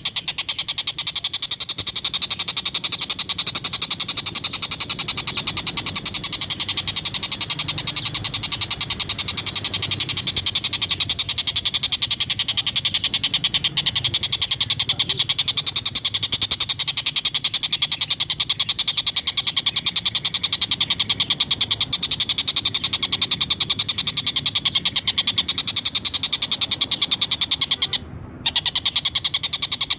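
Tengkek buto, the collared kingfisher, giving its rapid cackling 'ngekek' chatter, a fast unbroken run of harsh notes, with a brief pause near the end.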